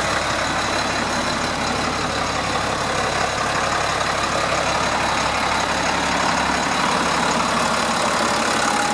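Box truck's DT466 inline-six diesel engine idling steadily.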